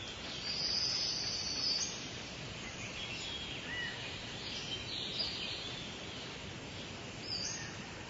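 Wild birds calling in the background over steady outdoor ambience: a high trill lasting about a second and a half near the start, then scattered short high chirps.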